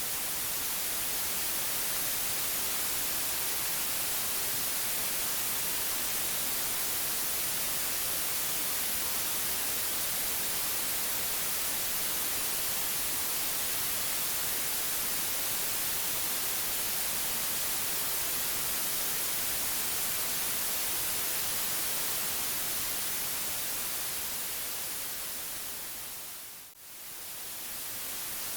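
Steady white-noise hiss, strongest in the highs. Near the end it fades away for a moment and swells back in.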